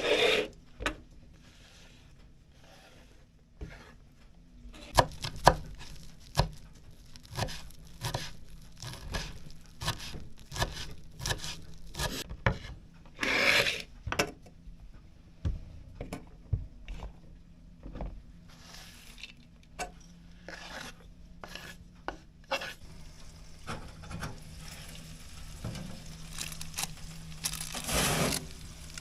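Irregular knocks, clatter and scraping of things being handled, with two longer, louder scrapes about halfway through and near the end.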